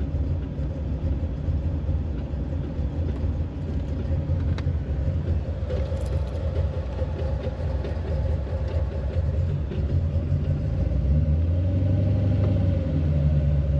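Chevrolet Corvette C4's V8 engine idling, heard from inside the cabin as a steady low rumble with a steady hum over it. The rumble grows a little louder near the end.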